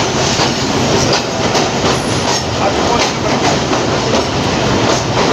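Passenger train running on the rails: a steady loud rumble with wheels clicking over the rail joints.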